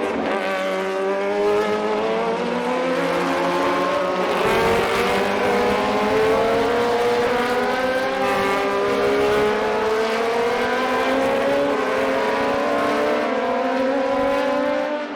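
Vintage single-seater racing car engines at high revs, their pitch climbing steadily as the cars pull through a gear, with a drop and a fresh climb about four and a half seconds in.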